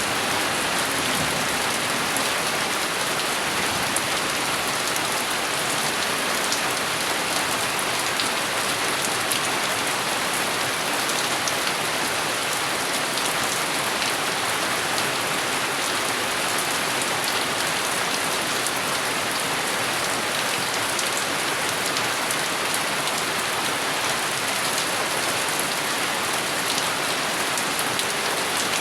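Steady, heavy rain falling on a surface, an even hiss dotted with the ticks of single drops; no thunder is heard.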